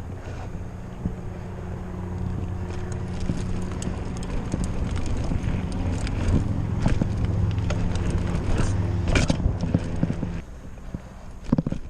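Bicycle ridden over a rough, muddy dirt track: scattered knocks, clicks and rattles from the bike, with wind on the microphone and a steady low hum that stops near the end.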